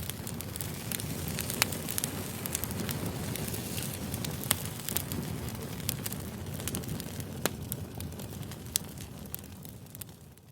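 Campfire crackling: a steady low rush of burning with scattered sharp pops and snaps. It fades down near the end.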